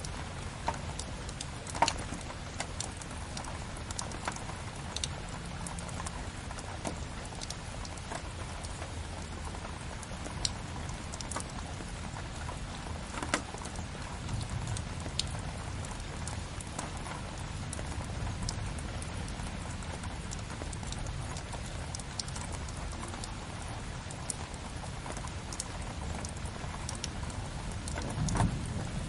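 Steady rain on a window mixed with a crackling wood fire: an even rain hiss and low rumble with sharp pops and snaps scattered throughout, the loudest pop about two seconds in.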